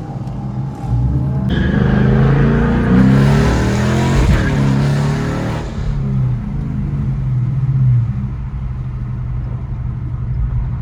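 A car engine accelerating hard, its pitch rising and falling as it goes past, loudest from about two to six seconds in. After that an engine runs steadily at a lower level.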